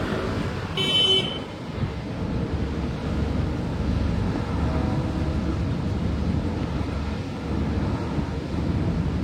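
Steady low engine rumble, with a brief high-pitched squeal about a second in.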